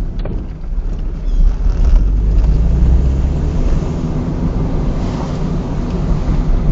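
Honda K20 2.0-litre four-cylinder engine running as the swapped Honda Insight drives, heard from inside the car with road and wind noise. The engine dips briefly about half a second in, then pulls harder and louder from about two seconds in.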